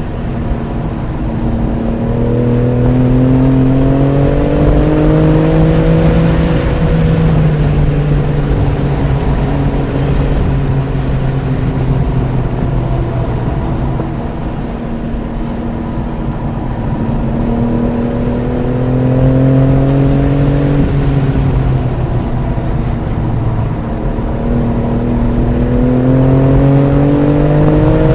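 BMW F80 M3 Competition's twin-turbo straight-six under hard acceleration, its pitch climbing three times and falling back after each climb as the revs drop, with steady road and wind noise underneath.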